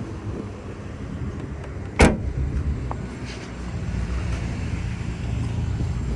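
Steady low vehicle rumble with one sharp, loud thump about two seconds in.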